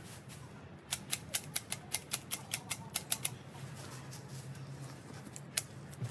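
Hand shears snipping a hedge: a quick run of about a dozen sharp blade clicks, roughly five a second, then a pause and two more snips near the end. A faint steady low hum runs underneath.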